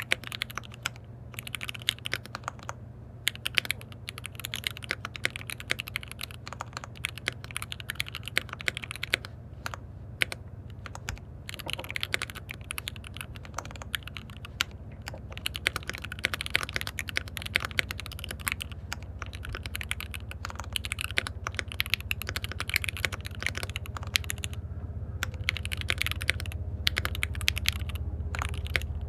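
Typing in irregular runs on a KBD67 Lite R3 custom mechanical keyboard with lubed linear switches: a dense patter of keystrokes with short pauses between phrases. A steady low hum sits underneath.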